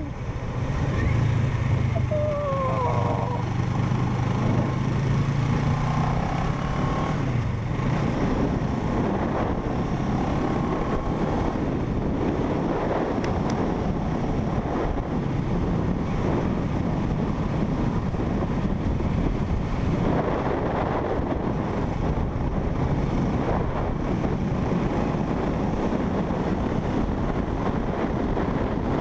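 Parallel-twin motorcycle engine running at a steady note for about the first seven seconds, with a few short whistling glides near the start. After that, wind rushing over the microphone covers most of the engine.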